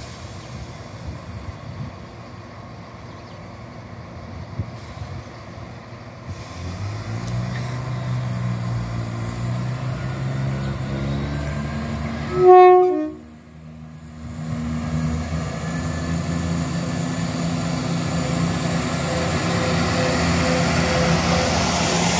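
Southern multiple-unit passenger train pulling into the station, its running noise building steadily, with one short horn blast about halfway through.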